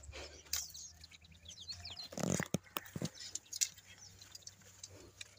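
Small birds chirping in the bush in short, scattered high calls, with a brief louder noise and a few light knocks about two seconds in.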